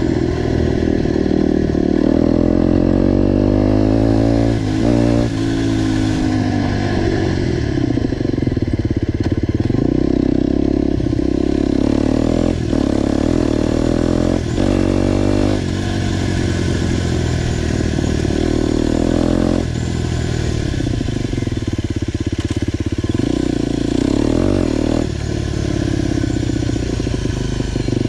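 Motorcycle with a new GPR aftermarket exhaust, ridden hard: the engine revs up repeatedly, its pitch climbing and then breaking off at each gear change, several times over. The exhaust is loud throughout.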